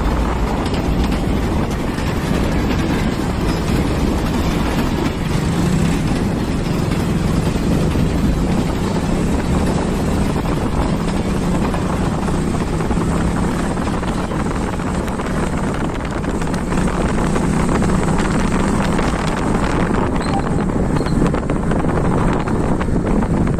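Motorcycle running steadily as it rides along, its engine hum under a steady rush of road and wind noise.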